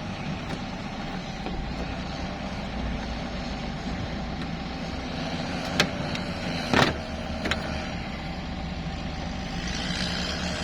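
A vehicle engine idling steadily. A few sharp knocks come around the middle, the loudest about seven seconds in.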